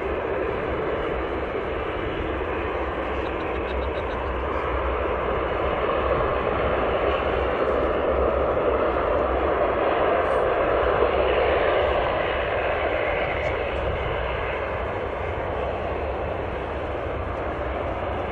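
Turboprop aircraft's engines and propellers passing. The noise swells to its loudest about ten to twelve seconds in, then fades somewhat.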